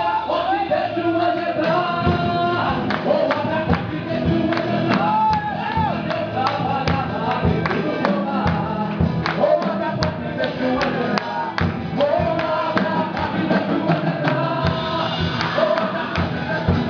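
Gospel music with a congregation singing together over a steady percussion beat.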